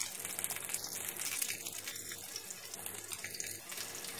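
Whole green capsicums shallow-frying in hot oil in a frying pan: a steady sizzling hiss with fine crackles.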